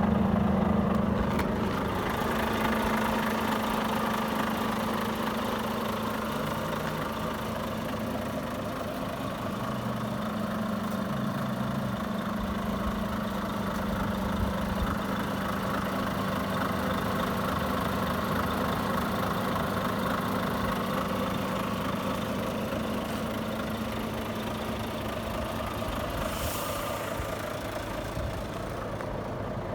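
Volvo FH500 tractor unit's 13-litre straight-six diesel idling steadily, with a short hiss near the end.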